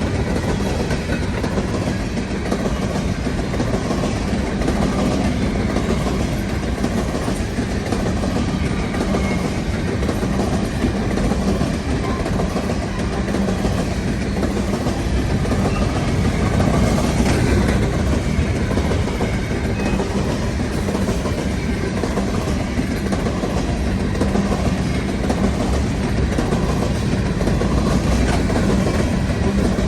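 Empty potash cars of a long CN freight train rolling past, a steady rumble with wheels clacking over the rail joints.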